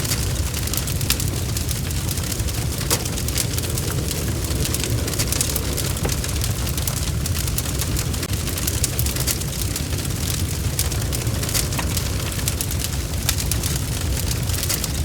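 Wood fire in a fireplace crackling steadily: many quick sharp pops and snaps over a low, even rumble of the flames.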